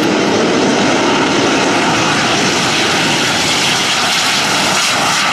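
Several BAE Hawk T1 jets' Rolls-Royce Adour turbofan engines at full power during a formation takeoff roll: loud, steady jet engine noise.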